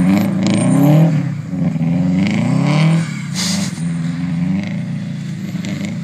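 Turbocharged Subaru Impreza flat-four engine revving hard in repeated rising and falling sweeps as the car spins its wheels through slushy snow, with a brief rush of noise about three and a half seconds in.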